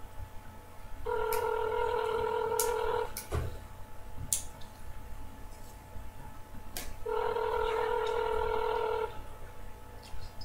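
Telephone ringback tone through a phone's speaker: two rings of about two seconds each, four seconds apart, while an outgoing call waits to be answered. A few light clicks fall between them.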